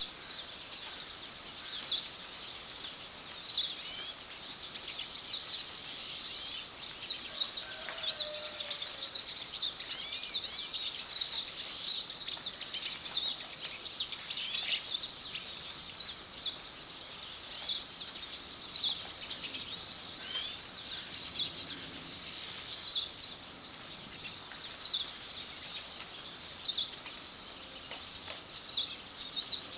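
Many birds chirping at once: a continuous run of short, high, overlapping calls.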